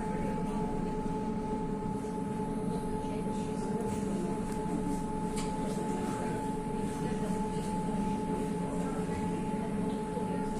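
An electric river tram running under way, with a steady high electric whine from its drive over a constant low rumble.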